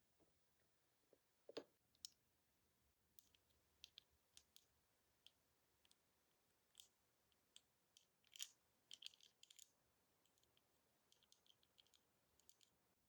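Faint, irregular small clicks and taps of nail tools against nails during gel removal.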